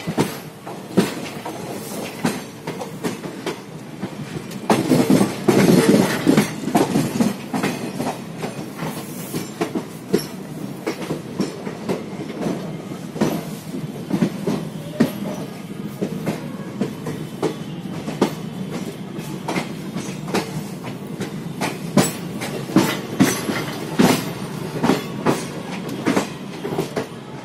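Passenger train running through a railway yard, heard from the coach's open door: its wheels clatter irregularly over rail joints and points. The clatter is loudest and densest for a couple of seconds about five seconds in.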